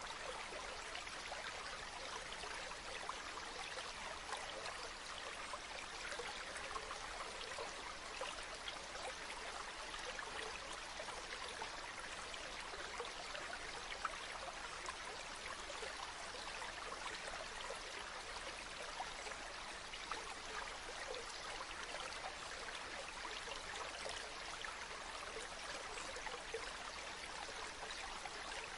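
A small stream flowing steadily, an even rush of running water with fine splashing.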